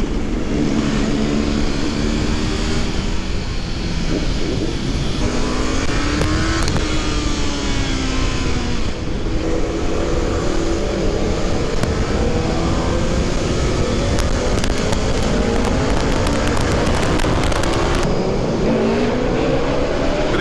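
Motorcycle engines running and revving while riding, the pitch rising and falling several times and climbing slowly through the latter part; the bike called out is a Suzuki Gixxer on a Race Fit exhaust, described as extremely loud.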